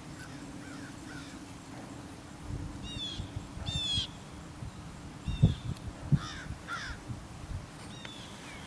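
A bird calling outdoors: short, high, downward-sweeping calls repeated about five times, over a steady low hum and a couple of dull low thumps.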